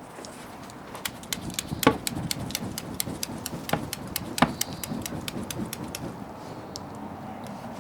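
Wood bonfire crackling: a run of sharp pops, several a second, from about a second in to about six seconds in, three of them louder than the rest.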